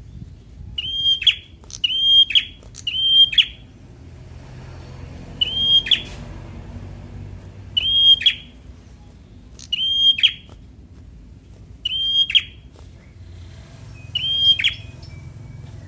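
A prenjak (prinia) calling: sharp, high chirps, each a brief note that drops steeply in pitch. Three come in quick succession, then one about every two seconds.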